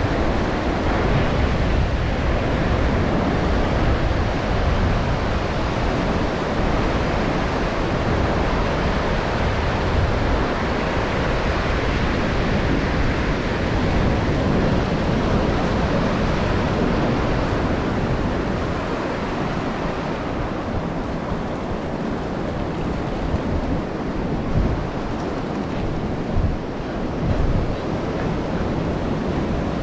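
Ocean surf washing on the shore, a steady hiss, with wind buffeting the microphone in low rumbles that ease a little near the end.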